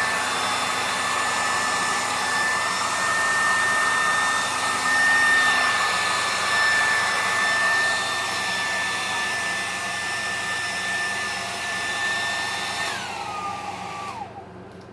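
Handheld hairdryer running on high: a steady rush of air with a high motor whine. Near the end it is switched off, and the whine drops in pitch and dies away.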